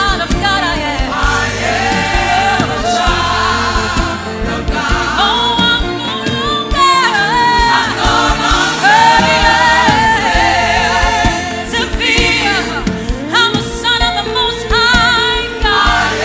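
Choir and worship singers singing a gospel worship song over band accompaniment, with long held sung notes.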